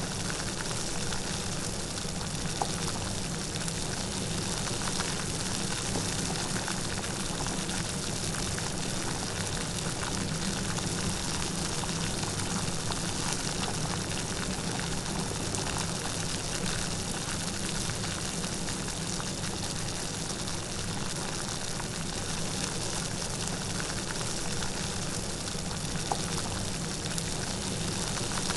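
Light rain falling steadily, a dense patter of small drops with no thunder.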